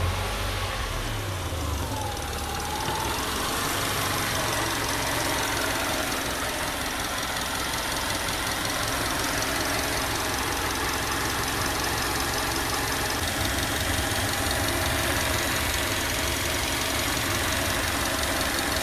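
2011 Subaru Outback's 2.5-litre flat-four engine idling steadily just after start-up, a little stronger in the first second or two before settling.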